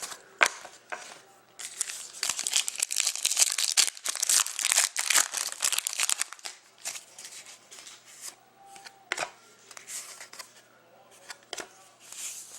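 Trading card pack wrapper crinkling and tearing, a dense crackly rustle for about five seconds starting a second or two in, then lighter rustling and clicks as the cards are handled.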